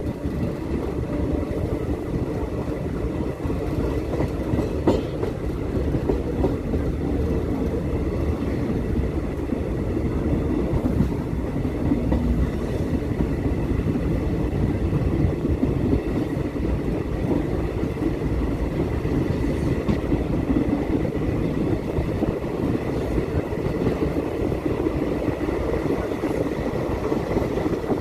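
Passenger train running on the rails: a steady low rumble and rattle, with a few sharp clicks from the wheels and a faint steady high whine.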